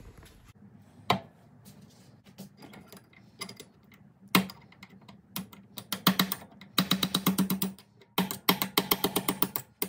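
Metal-on-metal tapping of a screwdriver on a U-joint C-clip in a Dana 30 axle shaft, knocking the clip out of its groove. A few single sharp taps at first, then quick runs of about eight taps a second in the second half.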